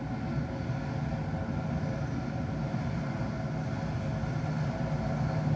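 Jet airliner engine noise: a steady rumble with a low hum, growing slightly louder toward the end.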